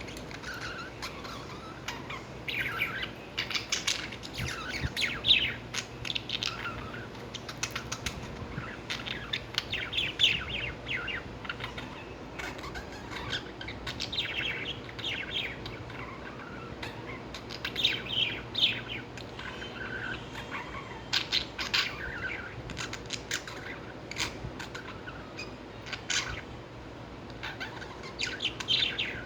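Lovebirds chirping and chattering in clusters of rapid high chirps that come every second or two.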